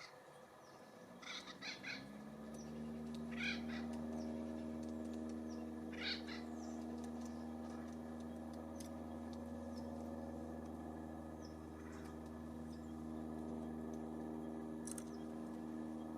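A few short, harsh bird calls: three in quick succession, then single calls now and then. Under them a steady low mechanical hum comes in about two seconds in and holds level.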